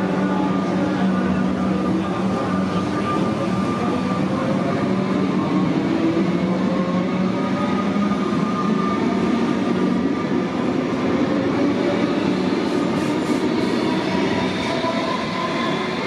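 Electric suburban train pulling out of the platform and accelerating away. The traction motors whine in tones that rise slowly in pitch over a steady rumble of wheels on the track.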